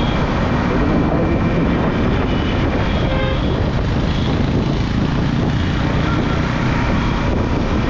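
Steady rush of wind on the helmet microphone mixed with the engine and road noise of a Yamaha R15M motorcycle cruising along.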